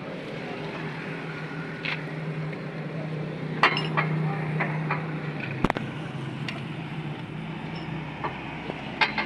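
Sharp metallic clinks and knocks, about seven scattered through, from hand tools on metal parts, over a steady low hum.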